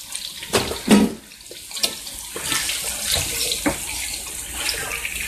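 Sausages with onions and green peppers sizzling as they sauté in a pan, a steady hiss that grows louder about two seconds in. A thump about a second in and a few lighter knocks.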